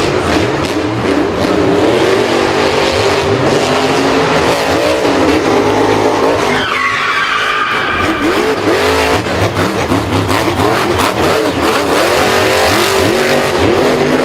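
Racing car engine revving with tyres squealing and skidding, the pitch wavering up and down; about seven seconds in, a higher-pitched whine joins in.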